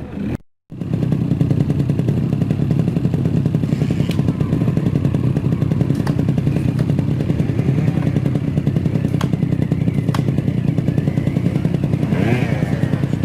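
Trial motorcycle engine running steadily with a fast, even beat and no change in pitch, with a few sharp clicks over it. The sound cuts out briefly right at the start.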